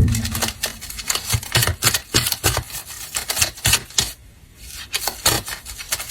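Tarot cards being handled and shuffled on a table: a quick, irregular run of light clicks and taps, several a second, after a single louder knock at the start.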